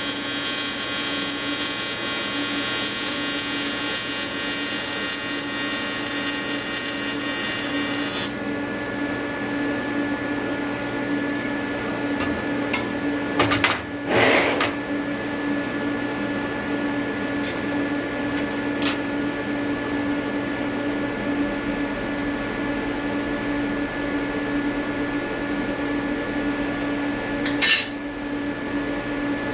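AC TIG welding arc buzzing steadily, set on square-wave output, welding an aluminium intercooler. The high hiss drops out about eight seconds in while the buzz carries on, and there are a few short clacks about halfway through and again near the end.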